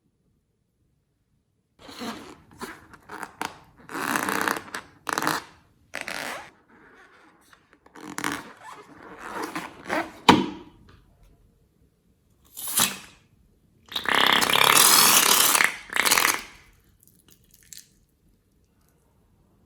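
Slime being squeezed and kneaded, giving irregular wet squelches and fart-like pops as air pockets are pushed out, starting about two seconds in. The longest and loudest squelch comes near the end.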